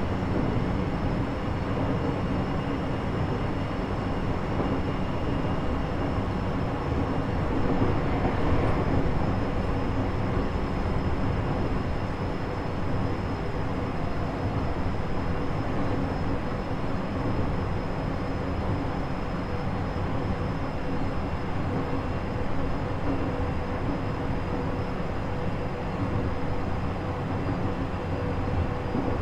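Running sound inside a JR East E127 series electric multiple unit motor car (KuMoHa E127-11), cruising at a steady speed: a continuous rumble of wheels on rail with several steady whining tones from the traction-motor gearing. This car is known for an abnormal gear noise, a second tone a semitone above the usual minor-seventh whine.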